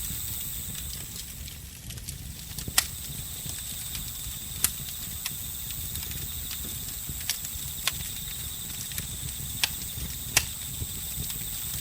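Campfire crackling, with about seven sharp pops scattered through it over a steady low noise of the burning fire. Crickets and other insects trill steadily on two high notes throughout.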